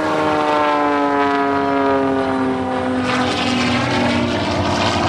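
Propeller airplane flying past. Its engine drone drops steadily in pitch as it goes by, then blurs into a broader rushing sound for the last second or two.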